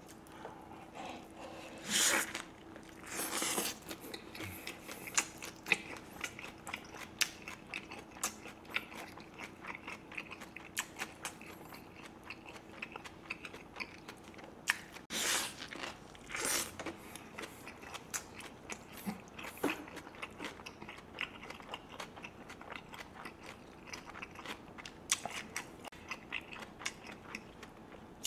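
Close-miked chewing of a tortilla wrap filled with chicken and crisp raw vegetables: steady wet, crunchy mouth sounds. A few louder bites come about 2 and 3 seconds in, and again around 15 and 16 seconds.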